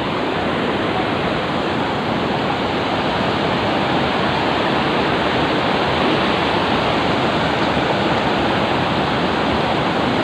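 Water rushing and pouring steadily at a jack well, a dense, unbroken sound like a waterfall.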